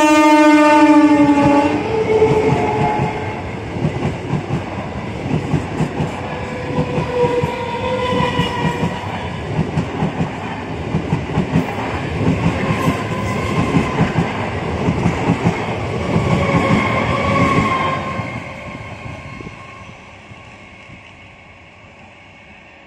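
Electric multiple-unit local train sounding its horn, which cuts off about a second and a half in, then passing close with a fast, uneven clatter of wheels over the rail joints. The clatter fades away after about eighteen seconds.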